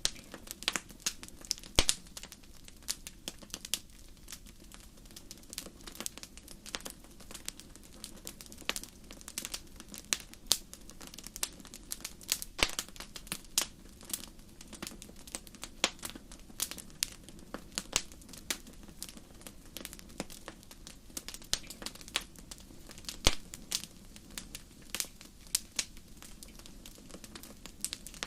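Campfire crackling: irregular sharp pops and snaps, several a second, over a steady low rush.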